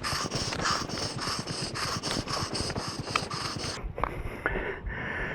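Rider panting hard after the climb, in a quick, regular rhythm that drops away abruptly near the end.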